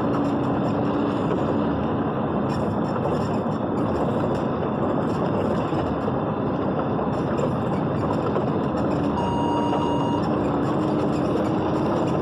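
Steady noise of a vehicle driving in heavy rain: an even hiss of rain and wet tyres over a low engine drone that creeps up slightly in pitch in the second half. A short electronic beep sounds once, about nine seconds in.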